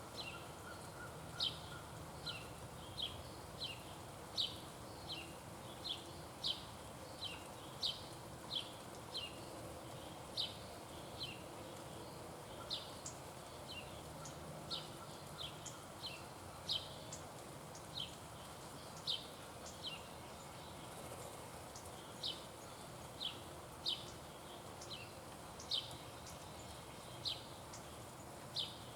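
Short, sharp, high chip calls repeated steadily, about one to two a second, from a small animal.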